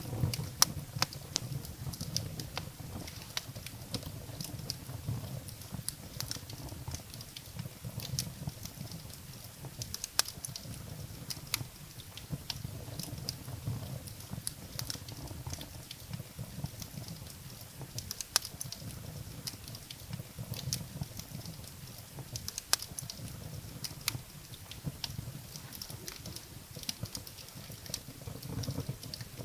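Wood fire burning in a fireplace: a steady low rumble of the flames with irregular sharp crackles and pops of burning firewood, the loudest pops about a second in and again around a third, two thirds and three quarters of the way through.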